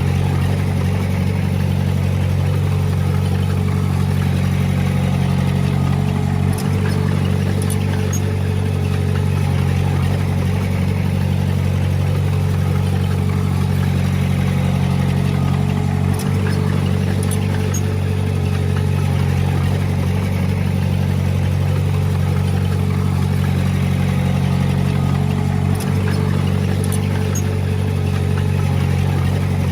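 Heavy-equipment diesel engine running steadily at a constant speed, dipping briefly three times about ten seconds apart.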